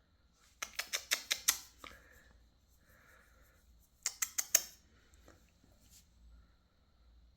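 Two short runs of rapid sharp clicks, about five or six a second: the first lasts just over a second, the second about half a second.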